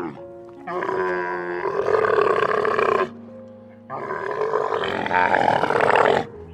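Camel calling: two long, loud groaning calls of about two seconds each, over background music.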